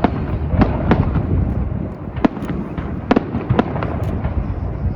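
Fireworks display going off: a continuous low rumble of bursts with a dozen or so sharp cracks at irregular intervals.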